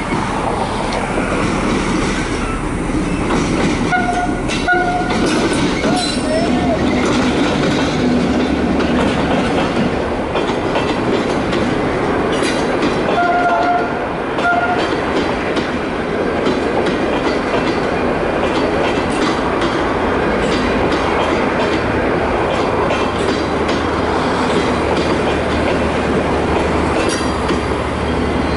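Passenger train behind a General Motors diesel locomotive rolling past at close range, with the coaches' wheels clattering steadily over the rail joints. Two pairs of short high tones sound about four seconds in and again near the middle.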